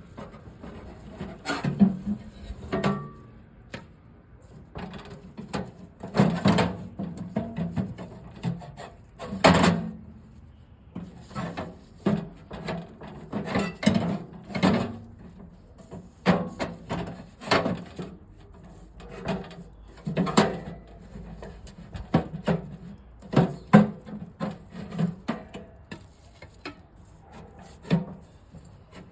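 Irregular knocks, clatters and rubbing scrapes, one to three a second and uneven in loudness, as of hard objects being handled and set down.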